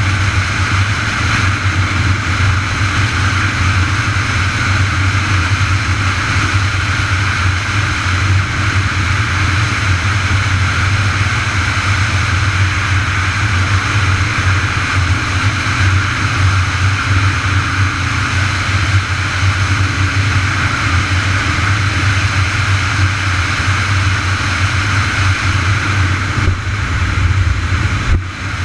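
Steady wind and road noise from riding a bicycle, with a loud low rumble under a constant rushing hiss, dipping briefly just before the end.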